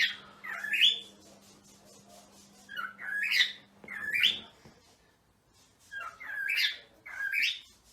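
Cockatiel calling: three pairs of short, rising, warbling whistled calls, a couple of seconds apart.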